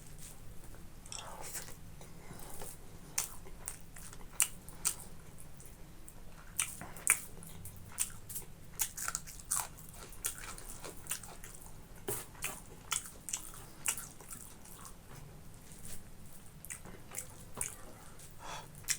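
A person eating close to the microphone: chewing and biting, with irregular sharp wet mouth clicks and smacks.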